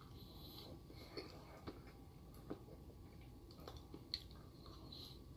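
Faint chewing of soft iced cake, with a few small scattered clicks.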